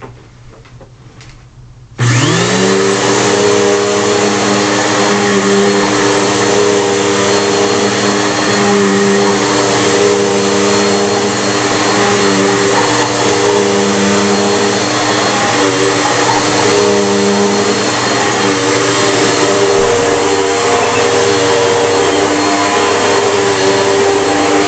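Bissell PowerForce Bagless upright vacuum cleaner switched on about two seconds in. A few faint clicks come before it, then the motor spins up quickly and runs steadily with a constant whine.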